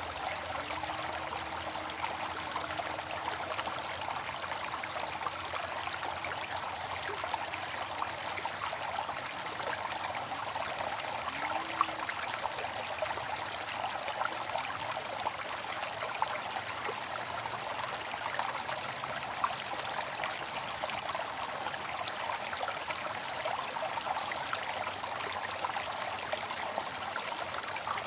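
Water fountain splashing and trickling steadily, a constant wash of falling water with small individual drops and splashes ticking through it.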